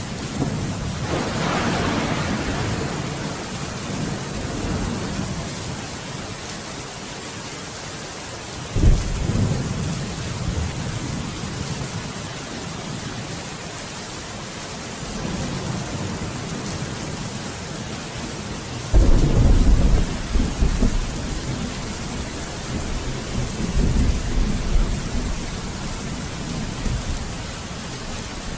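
Steady rain falling through a thunderstorm, with thunder rolling several times. The loudest is a sudden clap about two-thirds of the way through that rumbles on for a couple of seconds; another sharp crack comes about a third of the way in.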